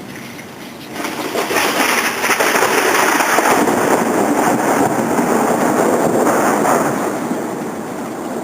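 Thunder from an overhead storm cell, a long rumble that builds about a second in and fades away near the end.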